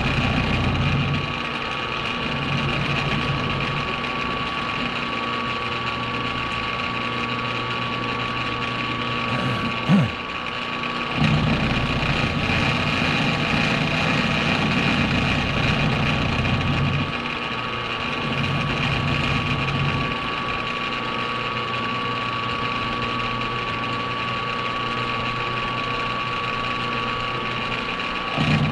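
A machine tool's motor and drive running steadily with a constant whine. Its low hum drops out and returns several times, and about ten seconds in there is a short knock with a quick falling pitch.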